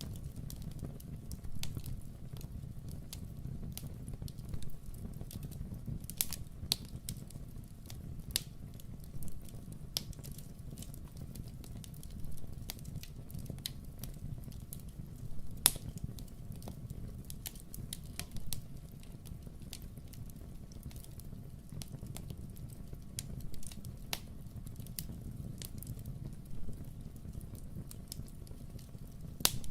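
Wood fire crackling in a fireplace: irregular sharp pops and snaps over a steady low rumble, with one louder pop about halfway through and another near the end.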